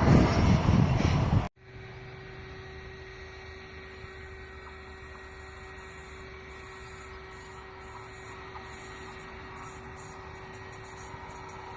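A passing train's rumble cuts off abruptly about a second and a half in. A quiet steady hum with one low tone follows, with faint, flickering high hiss over it.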